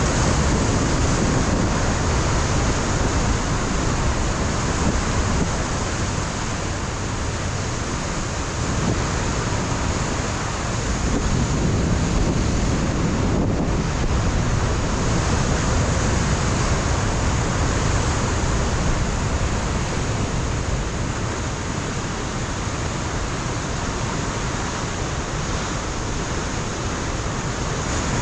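Ocean surf breaking against a rocky coastline, a continuous wash of waves swelling and easing, with wind rumbling on the microphone.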